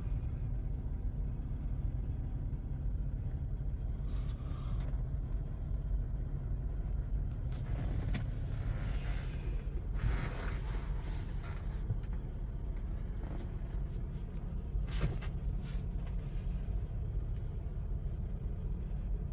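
Semi-truck diesel engines running at low speed, a steady low rumble, with a few short hisses about halfway through and again a little later.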